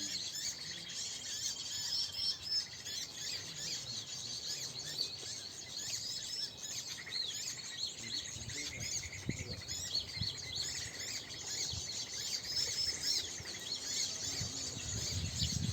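Many small birds chirping and twittering at once, a dense, unbroken chorus of short overlapping high calls.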